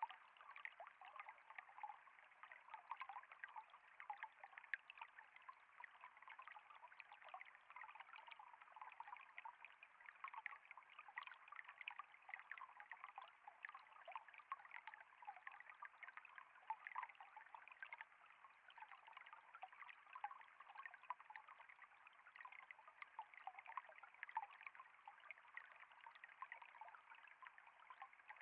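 Faint, steady trickle of flowing water, with a constant fine patter of small splashes.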